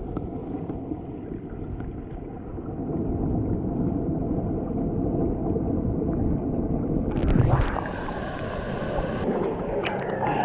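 Creek water rushing over rocks, a steady noisy wash that gets louder about two and a half seconds in.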